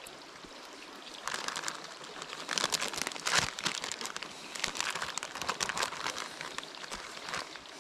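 Irregular crinkling and crackling of mozzarella that is stuck together being pulled apart and handled, starting about a second in and dying down near the end.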